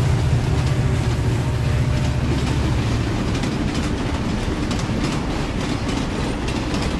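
Passenger train rolling along the track: a steady low rumble with a rapid clickety-clack from the wheels.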